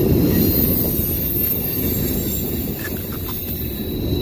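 Freight cars of a long manifest train rolling past at close range: a steady rumble of steel wheels on the rails.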